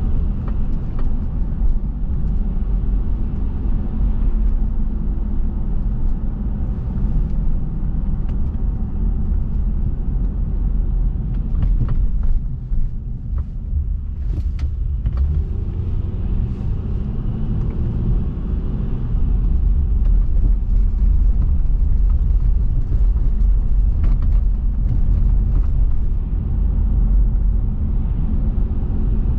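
Car driving: steady low rumble of road and engine noise, dipping briefly about twelve seconds in.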